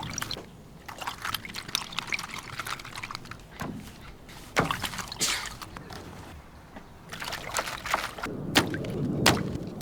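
Water pouring and sloshing, with scattered sharp splashes and knocks. It gets louder over the last two seconds.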